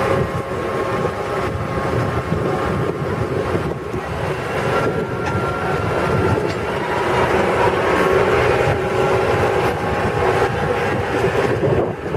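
Farm ride truck's engine running steadily as it moves along, with a few faint steady whining tones over the noise.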